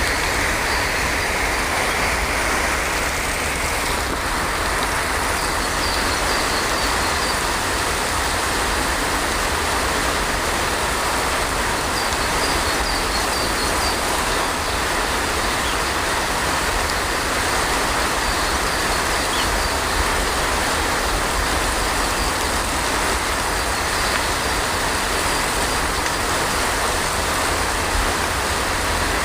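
Heavy rain falling steadily, an even rushing hiss with a deep low rumble beneath it. A few faint high chirps come through now and then.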